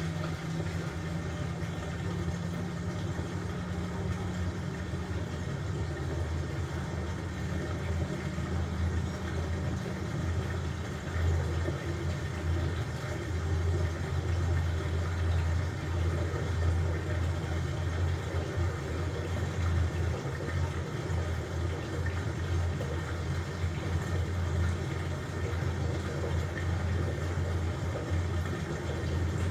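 LG washing machine running mid-cycle with a load of blankets: a steady low motor hum under a churning noise. A higher hum fades out in the first few seconds.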